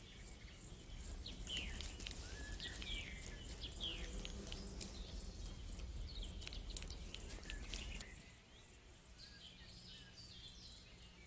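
Faint birdsong: scattered short chirps and quick whistled sweeps, over a low rumble. The sound drops in level about eight seconds in, with a few more chirps near the end.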